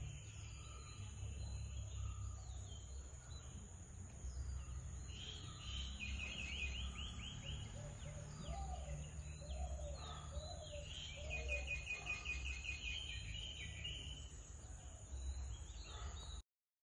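Garden ambience with small birds singing: two fast trilled runs of quick notes, about six seconds in and again about eleven seconds in, with a few lower calls between them, over a steady high drone and a low rumble. The sound cuts off just before the end.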